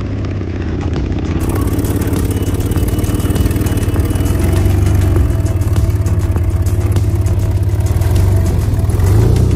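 Off-road 4x4 vehicle's engine running with a deep, steady rumble that grows louder over the first few seconds.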